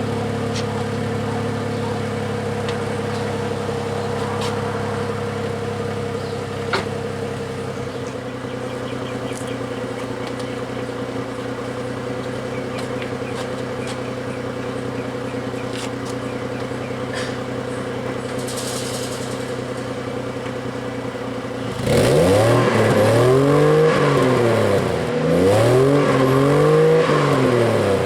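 Chevrolet Trailblazer's 4.2-litre inline-six idling steadily through a straight-piped exhaust, then revved several times in quick succession near the end, the pitch rising and falling with each blip.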